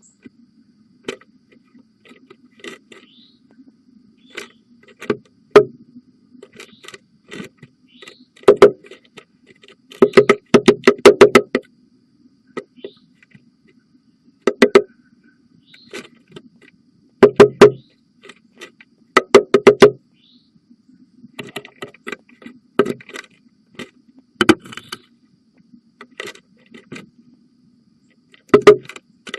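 Downy woodpecker pecking and chiseling the wood of a nest-box entrance hole: quick runs of sharp taps every few seconds, with lighter scattered taps between, over a faint steady hum.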